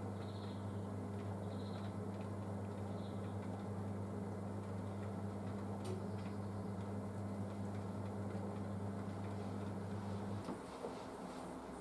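Panasonic front-loading washing machine on its wool cycle, giving a steady electric hum with a rushing undertone that cuts off abruptly about ten and a half seconds in, followed by a small click.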